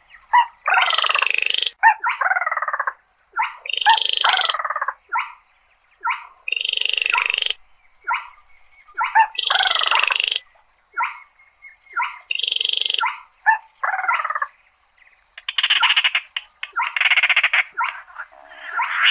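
Baillon's crake calling: a quick series of dry rattling calls, each about a second long, followed by longer, denser rattles near the end.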